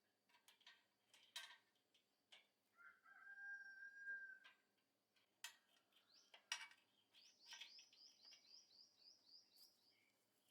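Faint bird calls: one held call about three seconds in, then a rapid run of about ten short, falling chirps, with scattered faint clicks.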